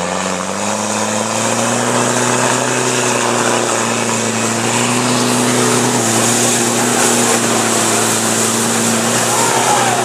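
An off-road 4x4's engine working hard through deep mud. Its revs rise in the first half second, then hold at a steady, even note throughout.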